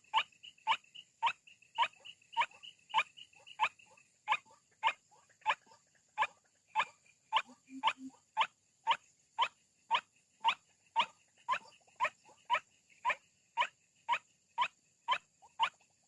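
White-breasted waterhen (ruak-ruak) call used as a lure: a short sharp note repeated in an even rhythm, a little under two a second, going on without a break.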